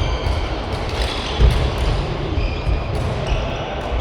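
Badminton doubles play on an indoor court: shoes squeak on the court floor and feet thud during footwork, the loudest thud about a second and a half in.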